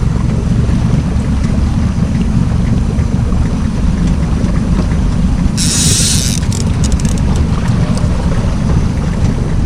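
Wind buffeting the microphone over the low, steady rumble of a trolling boat under way, with a brief hiss about six seconds in.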